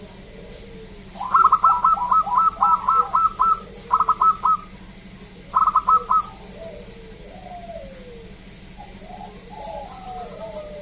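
Zebra dove (perkutut) cooing: a rapid run of short staccato notes starting about a second in, then two shorter bursts. Softer sliding coos follow in the second half.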